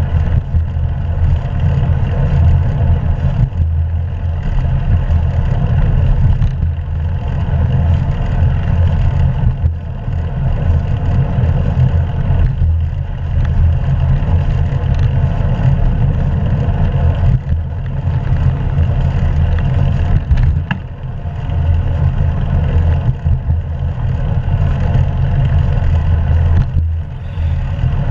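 Steady low rumble of wind buffeting the action-camera microphone, mixed with tyre and road noise from a moving bicycle, with brief dips now and then.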